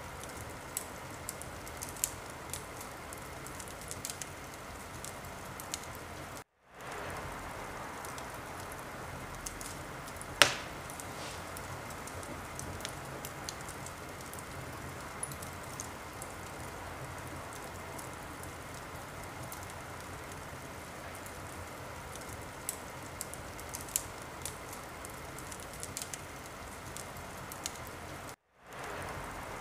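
Wood fire burning in a fireplace: a steady hiss with scattered crackles and pops, and one loud pop about ten seconds in. The sound cuts out briefly twice, about six seconds in and near the end.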